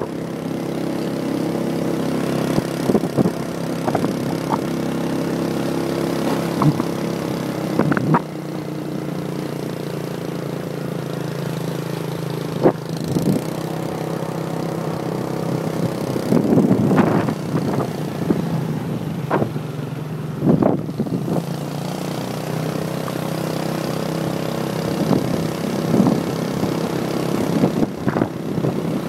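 Motorbike engine running steadily at an even speed while riding, with a few short clattering knocks now and then.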